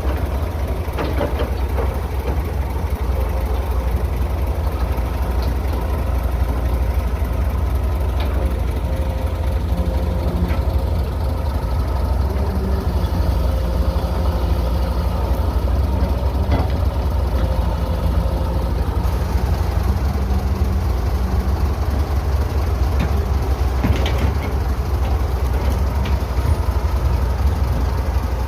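Heavy diesel engine of an excavator or dump truck running steadily with a deep, low rumble, and a few short knocks over it.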